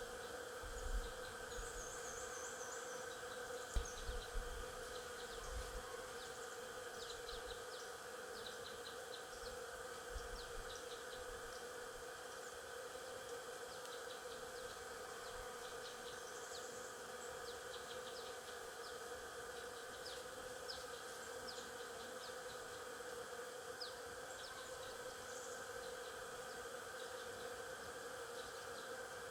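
Stingless bees buzzing in a steady, even hum, with short high bird chirps scattered through and a few brief low bumps in the first ten seconds.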